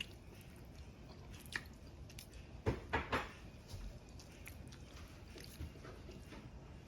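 Someone chewing and biting food, with a cluster of three sharper clicks about halfway through.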